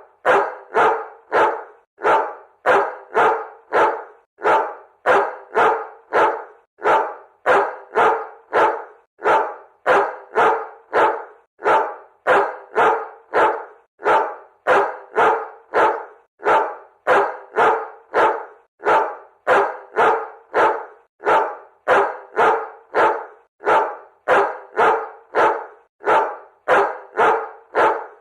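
A dog barking over and over in a steady, even rhythm, about two short sharp barks a second.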